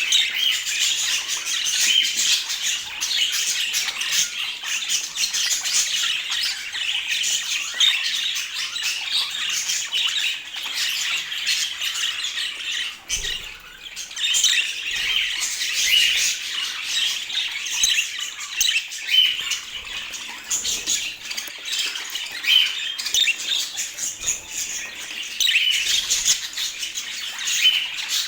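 Budgerigars chattering, a continuous high-pitched warbling with squawks and chirps, with a brief lull about halfway through.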